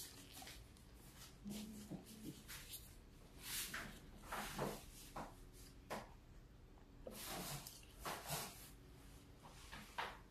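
Chewing and wet mouth sounds of someone eating a cheeseburger, mixed with soft squishing and rustling as plastic-gloved hands press and handle the burger. The sounds come short and irregular, with the loudest near the middle and once near the end.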